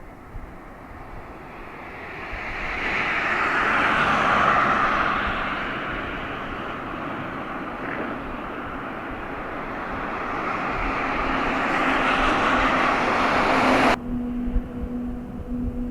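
Jet noise from a Boeing 767-300 freighter's twin turbofan engines, swelling to a peak about four seconds in, easing, then building again. It cuts off abruptly near the end, leaving a steady low hum.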